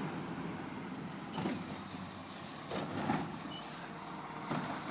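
Garbage truck running as it moves along, with a few knocks and a faint high squeak about two seconds in.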